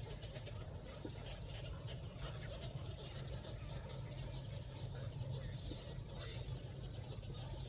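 Crickets trilling steadily at a high pitch over a low rumble, with a few faint scattered chirps.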